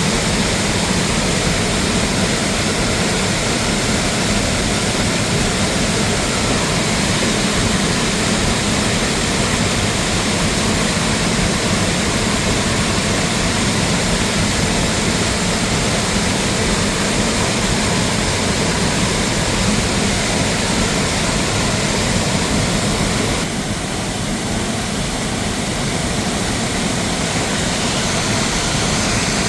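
Steady, loud roar of rushing water from a mountain waterfall, dropping a little in level about three-quarters of the way through.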